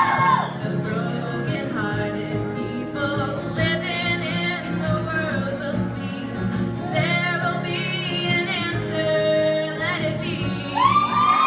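Group of women singing held, wordless harmonies over steady low sustained notes, with a louder sung line coming in near the end.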